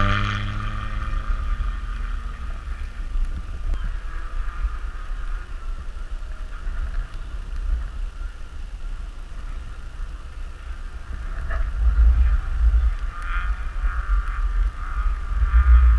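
A car engine running over a steady low rumble, growing louder about twelve seconds in and again near the end.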